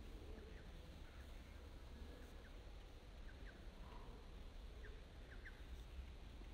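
Quiet outdoor ambience: a few faint, short bird chirps now and then over a low rumble.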